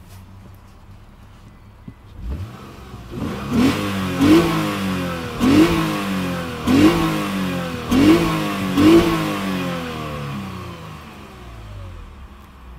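2015 Lexus RC350 F-Sport's 3.5-litre V6 engine and exhaust. The engine comes up about two seconds in, is revved in six quick blips, each rising sharply and falling away, and then settles back down toward idle.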